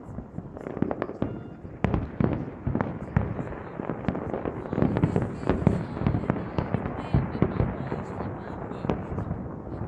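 Fireworks display: a dense, continuous run of overlapping bangs and crackles, a little louder around the middle.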